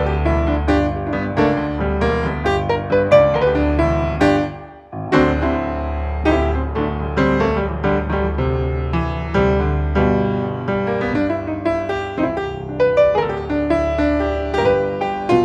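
Piano playing an instrumental passage of a song, quick struck notes over a low bass, with a brief break about four and a half seconds in before it picks up again.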